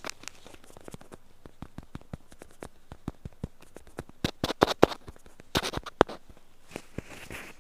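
Ear-cleaning tool scraping earwax inside an ear canal, heard as an irregular run of sharp crackling clicks, louder in clusters about four and a half and six seconds in.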